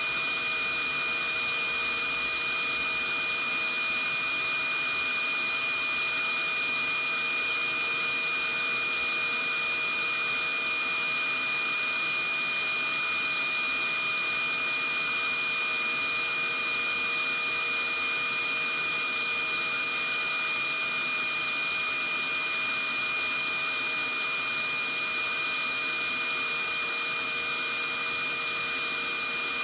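Vacuum cleaner motor running steadily: an even hiss with a constant high whine over it, unchanging throughout.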